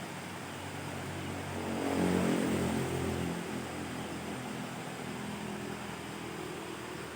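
Steady rushing noise, with a motor engine's hum swelling up about two seconds in and fading away a couple of seconds later, as of a vehicle passing.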